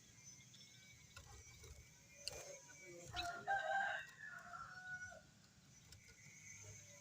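A bird's drawn-out, crow-like call starting about three seconds in and lasting about two seconds, after a few short clicks.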